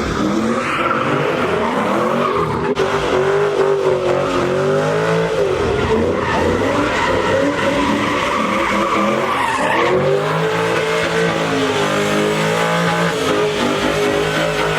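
Car engines revving hard, their pitch rising and falling every few seconds, over the steady skid of tires spinning on pavement: cars doing burnouts at a street takeover.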